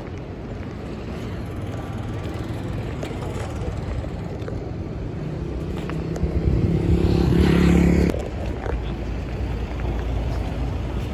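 City street traffic: a steady low rumble of vehicles, with one engine getting louder and rising in pitch over a few seconds before cutting off suddenly about eight seconds in.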